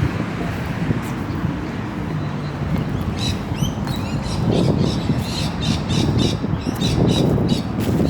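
Birds chirping and squawking in quick, repeated short calls that start about three seconds in, over a steady low rumble.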